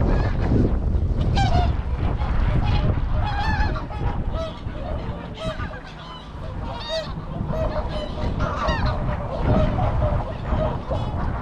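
A flock of geese honking and calling over and over in quick succession, with wind rumbling on the microphone underneath.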